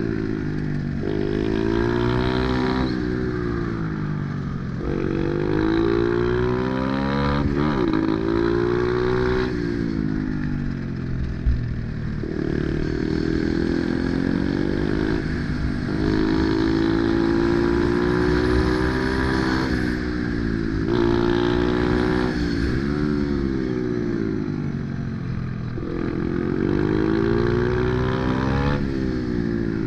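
Pit bike's small single-cylinder engine being ridden hard, its revs climbing and dropping again and again every few seconds as the rider works the throttle and gears. A single short knock about eleven seconds in.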